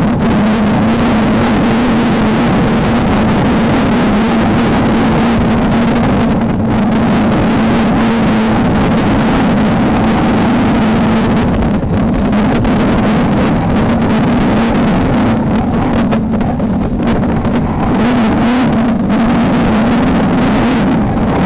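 Off-road race car's engine running hard at a steady high pitch that wavers slightly, over a loud rushing noise.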